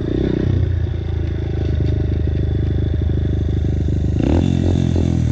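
Dirt bike engine running while riding, its pitch rising with a rev about four seconds in.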